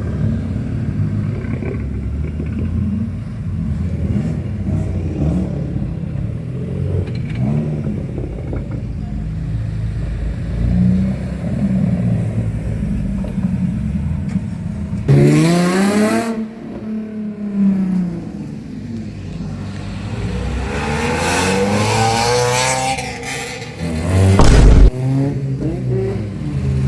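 Car engines running and revving: a steady mix of engine notes, then a sharp rev that rises and falls about fifteen seconds in. Further rises and falls in engine pitch follow as cars accelerate, and a single loud bang comes near the end.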